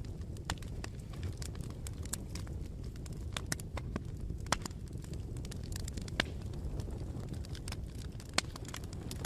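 Bonfire burning: a steady low rumble of flames with scattered crackles and sharp pops, the loudest pops about four and a half seconds in and near the end.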